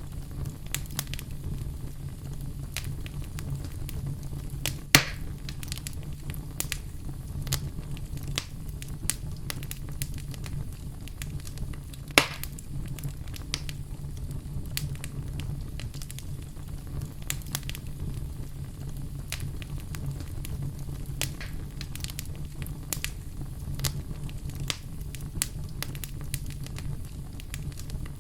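Fire crackling in a fireplace: a steady low rumble with scattered crackles and snaps, and two louder sharp pops about five and twelve seconds in.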